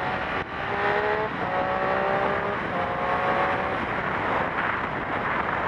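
Triumph Street Triple R's inline three-cylinder engine through its stock exhaust, accelerating: the note climbs three times, dropping between runs as it shifts up through the gears. Wind rush over the helmet takes over for the last couple of seconds.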